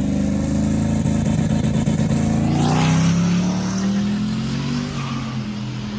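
Twin-turbo Chevy S10 drag truck's engine running hard down the strip. Its pitch holds steady, then climbs through the second half.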